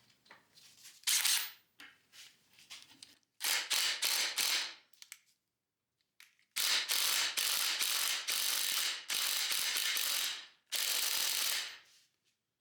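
Small impact wrench hammering on a seized bolt on a VW Beetle front beam in four bursts, the longest about four seconds. The bolt does not break loose.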